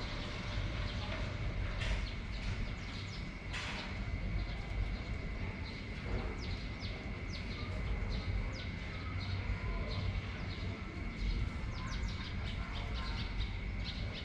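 Birds chirping, many short quick calls through the whole stretch, over a steady hiss and a constant high tone.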